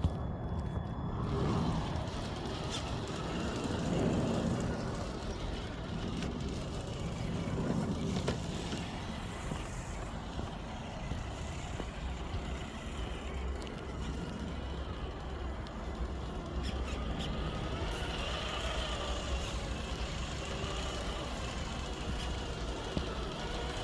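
Road traffic from a nearby highway: a steady rumble, with vehicles swelling past three times in the first eight seconds or so.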